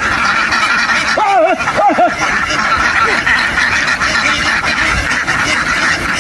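A large flock of ducks quacking all at once in a dense, continuous chatter. A few louder, arching calls stand out about a second in.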